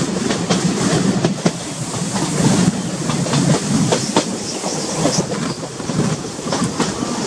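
Passenger train coach running on the track, heard from an open window: a steady rumble and rattle of the wheels, with irregular clicks and clacks from the rails.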